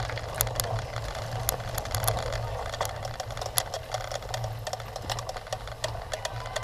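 Cyclocross bike being ridden over rough ground: a steady low hum with many irregular sharp rattles and clicks of the bike and its mounted camera shaking.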